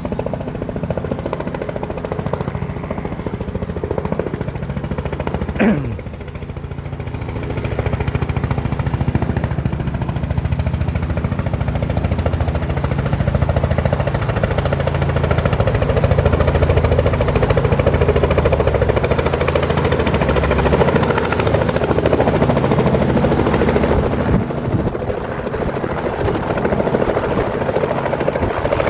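Helicopter engine and rotor running steadily with a continuous low drone. About six seconds in, a brief sweep falls sharply in pitch. From about eight seconds the sound grows louder and noisier.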